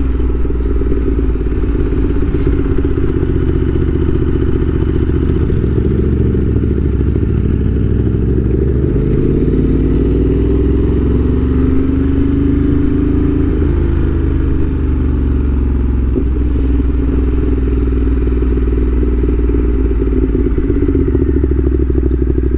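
Ducati Monster 1200 S's L-twin engine and exhaust running under way, heard from the rider's seat. Past the middle the revs climb for several seconds, then drop back.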